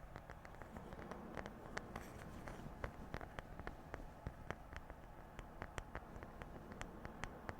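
Quick, light, irregular tapping on objects for ASMR, about three or four taps a second.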